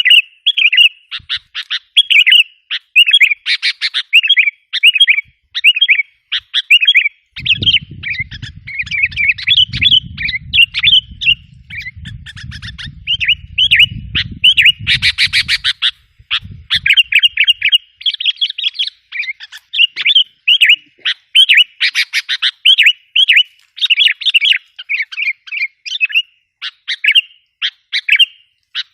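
Sooty-headed bulbuls (kutilang) calling rapidly and without pause: quick, bubbly chattering notes with harsh scolding squawks mixed in every few seconds. This is a lure call used to draw in and excite wild bulbuls. A low rumble runs beneath the calls from about a quarter of the way in to just past the middle.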